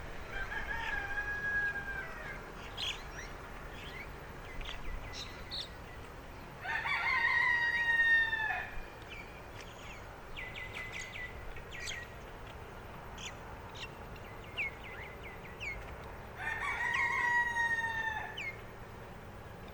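A rooster crowing three times, each crow about two seconds long and falling slightly in pitch at the end, the middle crow the loudest. Small birds chirp between the crows.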